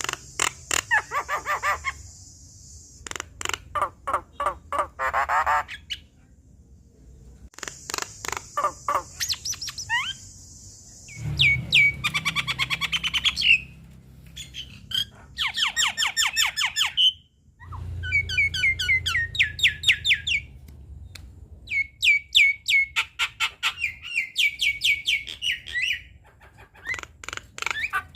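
Javan myna (jalak kebo) singing a long, varied song: phrases of rapid chattering notes and sharp whistles a few seconds long, with two short breaks.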